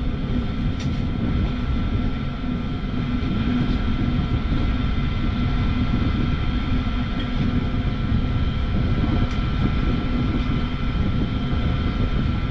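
Two-stage Tempstar gas furnace running: a steady rumble with a faint steady whine, growing slightly louder a couple of seconds in.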